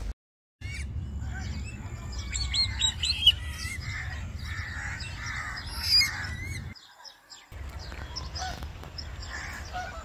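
Birds chirping and calling, with a run of quick rising chirps about two to three seconds in, over a steady low rumble. The sound cuts out briefly at the very start and again about seven seconds in.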